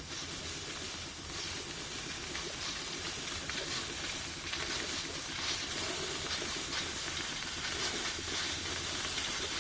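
Cheap electric steam cleaner putting out steam through a homemade plastic hose: a steady hiss, growing slightly louder, with the cleaner's water pump running underneath as a fast low flutter.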